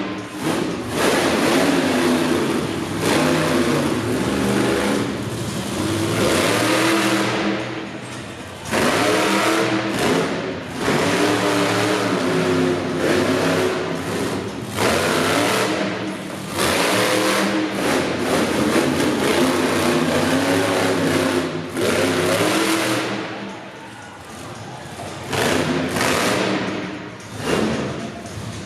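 Monster truck engine revving hard in repeated bursts of a second or two, the pitch climbing with each throttle stab and dropping back between them.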